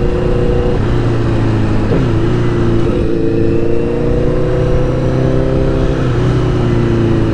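Honda CBR1000RR's inline-four engine running under throttle at fairly steady revs. The revs dip briefly about two seconds in, climb slowly again and ease down near the end.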